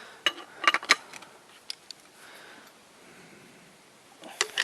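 Metal clinking and clanking as a campfire tagan, a metal pot-hanging stand, is handled: a cluster of sharp knocks with a brief ring in the first second, two lighter ticks, then two more knocks near the end.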